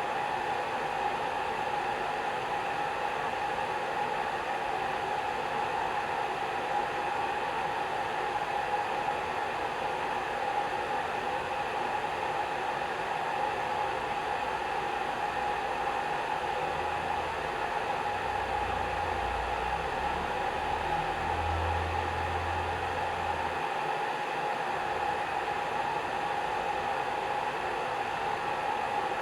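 Hair dryer running steadily: an even rush of blown air with a steady motor whine in it.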